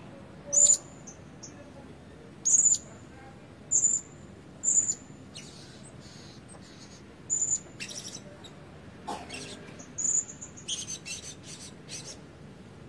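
Blue-crowned hanging parrot giving short, shrill, very high-pitched calls: about six single calls one to three seconds apart, then quicker, softer chips near the end.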